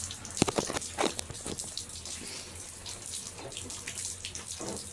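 Rainwater running and dripping, with sharp splashing drips, the loudest in the first second.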